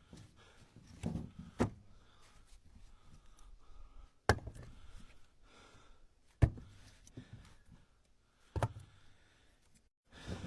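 Split ash firewood pieces knocking as they are set down on a stack, a sharp wooden knock about every two seconds.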